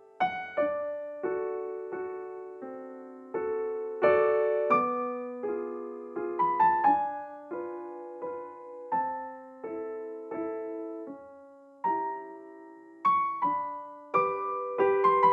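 Gentle background piano music: single notes and chords struck and left to fade, at an unhurried pace.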